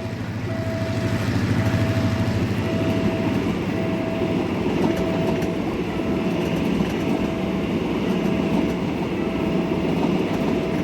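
Train passing a railway level crossing, a rolling rumble over a low diesel engine hum, hauled by a Hitachi diesel-electric locomotive. The crossing's warning signal beeps with a short tone about once a second the whole time.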